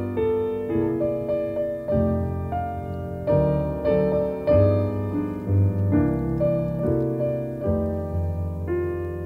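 Piano playing a song's introduction: chords struck every half second to a second over low bass notes, with no singing yet.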